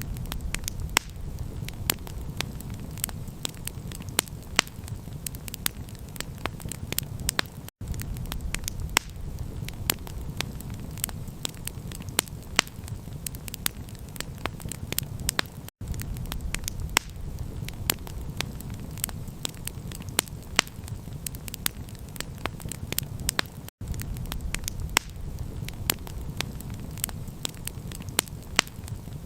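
Campfire crackling: frequent sharp pops and snaps over a low, steady rumble. The sound drops out for an instant about every eight seconds, where the recording loops.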